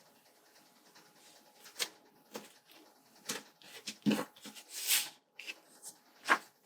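Planner stickers and paper being handled: scattered light taps and clicks, a soft thump about four seconds in, then a short papery rasp.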